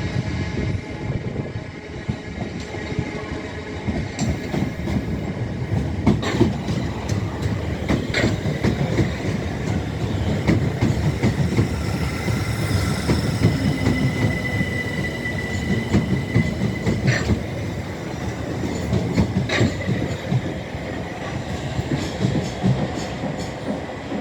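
Train running on the track through a station: a steady low rumble with scattered wheel clacks over rail joints, and a thin wheel squeal about halfway through that fades after a few seconds.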